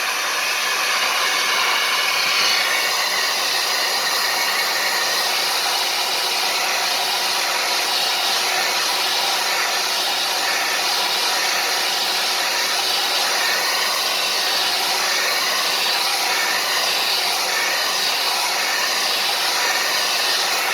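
Hair dryer running steadily, blowing hot air onto a phone's front glass to soften the adhesive under the digitizer.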